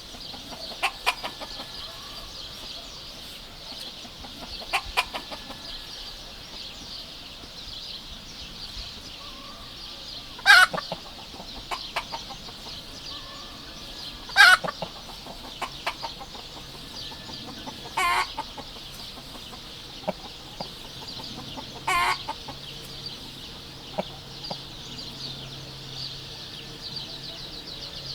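Chickens clucking and squawking in short calls every few seconds, the loudest about ten and fourteen seconds in, over a steady high-pitched hiss.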